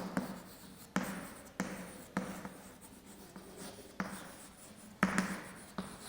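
Hand writing on a board: a series of short, sharp, scratchy strokes, roughly one a second, with a quick double stroke about five seconds in.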